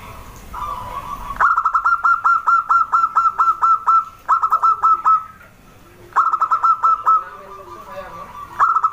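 Zebra dove (perkutut) calling: runs of rapid, short clipped cooing notes. A long run of about a dozen notes starts about a second and a half in, and shorter runs follow, repeated three more times.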